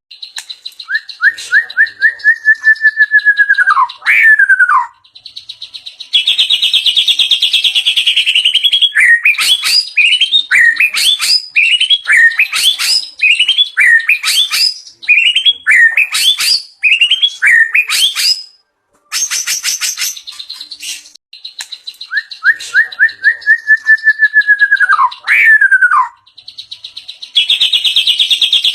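White-rumped shama singing loud, varied song: a run of quick notes sliding downward, a rapid high trill, then a long string of short rising whistled notes. After a brief pause the opening downward-sliding phrase comes again, followed by another trill.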